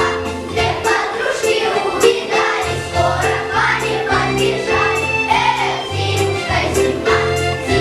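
A song: voices singing over a backing track with a bass line and a steady beat.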